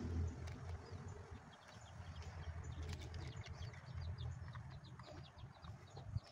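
Small birds chirping rapidly and repeatedly in the background over a low rumble. Occasional clicks of plastic toy parts being handled, with a sharp click near the end.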